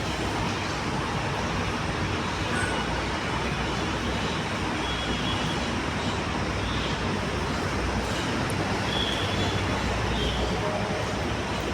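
Steady road-traffic noise with low rumble throughout, and a few faint, brief high tones now and then.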